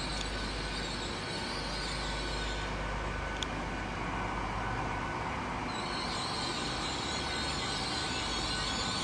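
GWR Class 800 bi-mode train standing at the platform with its underfloor diesel engines running steadily. A higher hiss or whine builds from about six seconds in, and there is one brief click a little over three seconds in.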